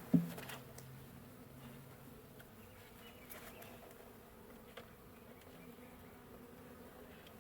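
Honeybees buzzing in a steady drone around a colony being moved into a new hive; the bees are agitated. A single sharp knock comes just after the start.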